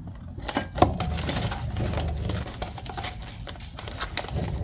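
Practice-kit materials being packed back into a box: wood blocks and plastic and metal plates knocking and clattering against each other and the box in irregular clicks and taps, with handling rustle.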